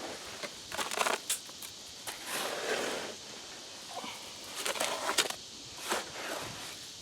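Concrete mix being worked in a plastic tub: intermittent bursts of scraping and rustling.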